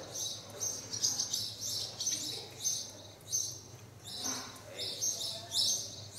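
Small birds chirping rapidly and without a break, about three high chirps a second, over a faint low steady hum.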